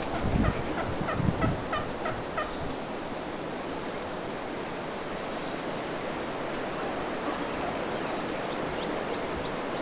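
Wild turkeys gobbling: a quick run of short calls, about four a second, over the first couple of seconds, with fainter calls returning near the end. Two low thumps come about half a second and just over a second in, over a steady hiss.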